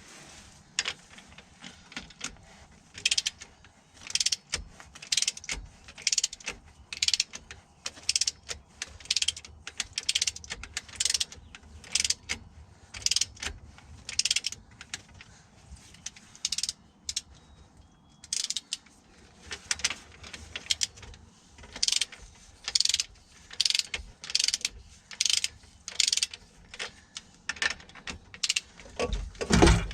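Ratchet or torque wrench being worked in short strokes on a bolt, a quick rasp of ratcheting clicks about once a second as the bolt is torqued down. A louder clunk near the end.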